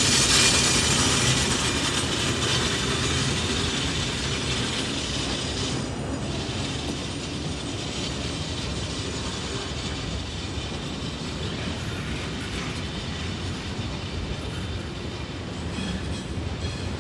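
Double-stack intermodal freight cars rolling slowly past on steel wheels, with the rolling and rattling of the cars on the rails. It is loudest at first, with a high hiss that eases over the first six seconds before settling to a steadier rolling noise.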